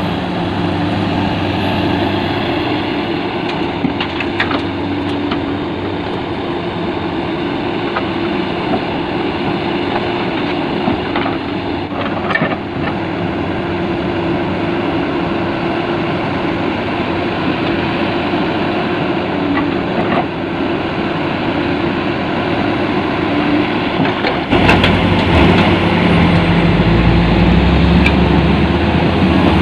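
Heavy diesel machinery running steadily at a dig site, with a few short metallic clanks. About 24 seconds in, a deeper, louder engine rumble sets in.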